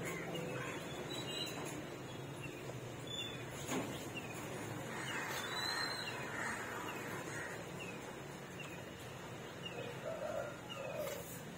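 Small birds chirping, short falling chirps repeating about once a second over a steady low hum, with a single click about four seconds in.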